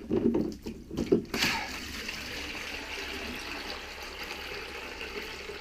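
A few handling knocks, then water pouring steadily into an empty bucket from about a second and a half in.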